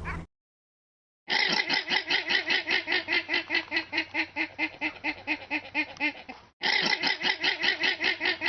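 An animal calling in a fast, even string of pitched notes, about five a second, which breaks off briefly near the end and then starts again.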